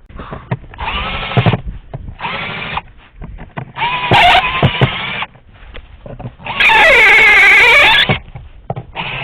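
Power drill run in five short bursts of whine, its pitch wavering under load; the fourth burst is the longest and loudest.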